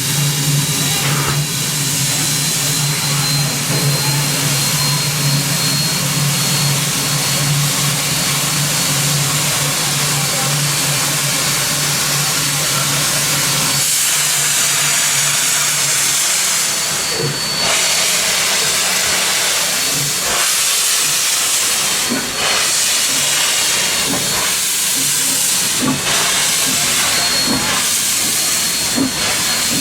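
Steam locomotive C17 974 hissing steam with a loud, steady hiss. A low steady hum underneath stops about halfway through.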